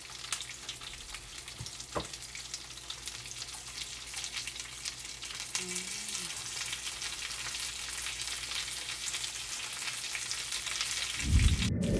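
Breaded oysters sizzling and crackling in hot oil in a frying pan. There is a single knock about two seconds in, and a loud dull bump near the end.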